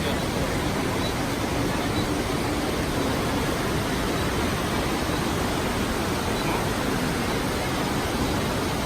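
Krka River waterfall: a steady, even rush of falling water.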